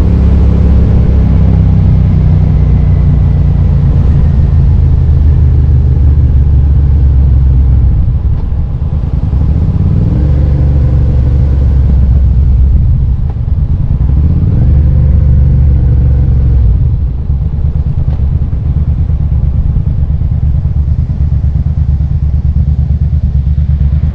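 2005 Suzuki SV650S V-twin engine running under way. It eases off about eight seconds in and pulls up in pitch twice in short rises, then settles to a lower, steady beat from about seventeen seconds.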